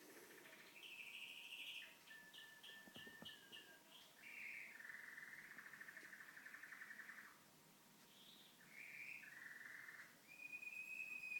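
Pet canary singing faintly, a run of separate phrases with short pauses between them: buzzy trills, a long rapid rolling trill in the middle, and a clear high whistle near the end.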